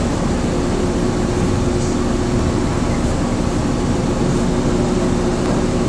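Steady running noise of a train heard from inside the carriage at the door, a low rumble with a steady hum, as it moves along a station platform.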